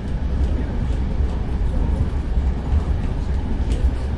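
Inside a moving train carriage: a steady, heavy low rumble of the running train, with the odd faint click or knock.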